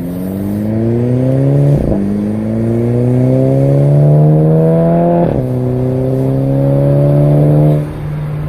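Turbocharged car engine, fitted with a KO4 turbo and a new diverter valve, accelerating hard through the gears: the pitch rises, falls at two upshifts about 2 and 5 seconds in with a short burst at each shift, then the engine is lifted off near the end.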